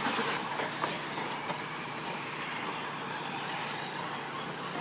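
Radio-controlled short course trucks running on a dirt track: a steady noise of motors and tyres, with a few faint ticks and a faint high whine about halfway through.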